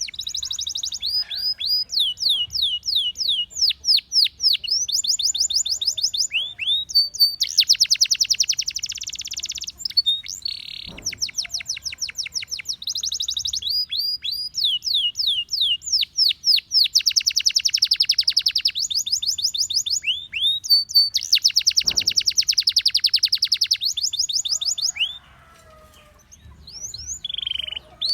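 Gloster canary singing: phrases of quick, repeated falling whistle notes alternate with very fast rolling trills, with a brief pause a little before the end.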